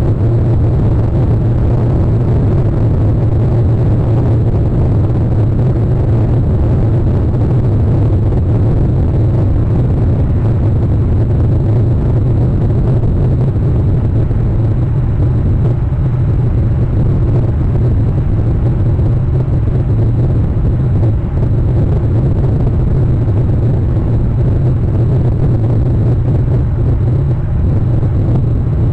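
Steady low rumbling noise, unchanging throughout, with no calls or distinct events.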